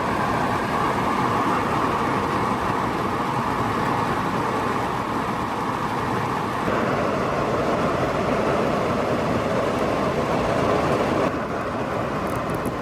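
Torrential rain pouring steadily, heard from inside a car as it drums on the roof and body.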